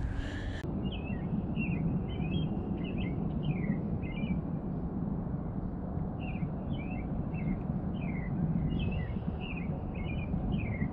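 A songbird chirping repeatedly in quick clusters of short, down-slurred notes over a steady low rumble.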